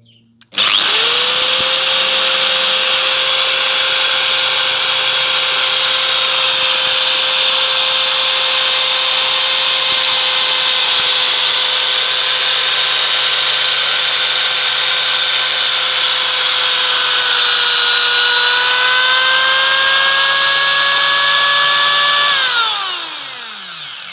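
DeWalt DWE4206 240 V angle grinder, fitted with new carbon brushes, switched on and run at full speed with a steady high whine. It is switched off near the end and winds down, the pitch falling until it stops.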